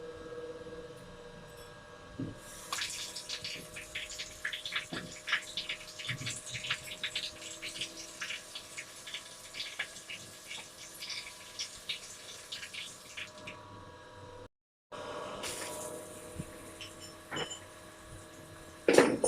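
Water running from a wall mixer tap and splashing, starting about three seconds in, with a brief break about three-quarters through. A louder, sharp sound comes near the end.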